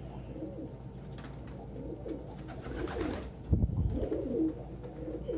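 Domestic pigeons cooing: a run of low, wavering coos, with a brief low thump a little past halfway.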